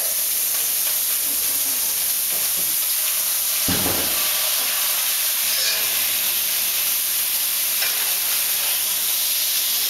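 Sliced meat and onions sizzling in hot oil in a steel wok while a spatula stirs them. There is a single dull thump about four seconds in.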